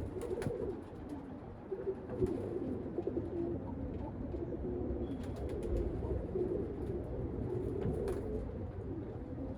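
Domestic pigeons cooing, several low coos overlapping continuously, with a few faint clicks.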